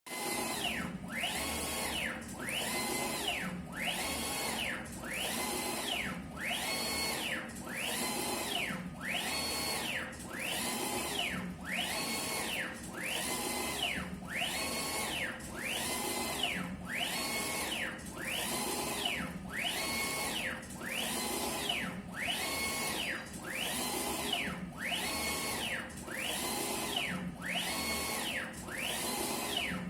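Olympos 6090 UV flatbed printer's print-head carriage sweeping back and forth as it prints. Its motor whine rises in pitch as the carriage speeds up, holds, then falls as it slows to reverse, about four passes every five seconds.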